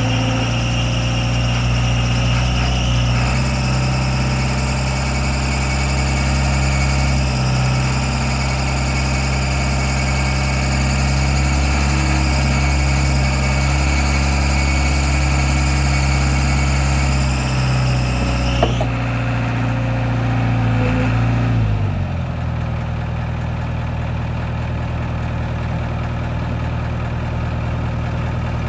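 Diesel engine of a 1987 Caterpillar 426 loader backhoe running steadily. About two-thirds of the way in a click comes and a higher whine stops. A few seconds later the engine note drops as it settles to a lower idle.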